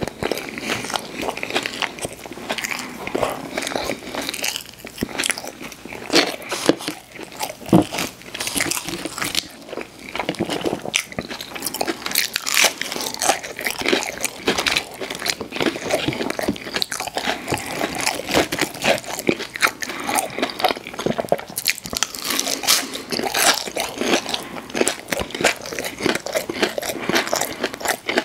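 A person biting and chewing crunchy fried fast food, a dense run of crackling crunches.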